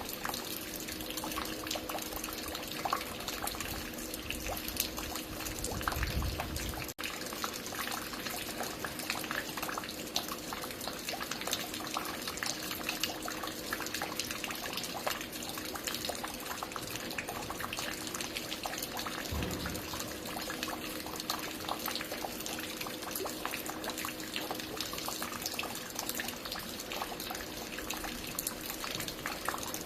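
Water falling and dripping steadily, a dense patter of small splashes, over a faint steady hum. Two brief low thuds sound, about six seconds in and again about twenty seconds in.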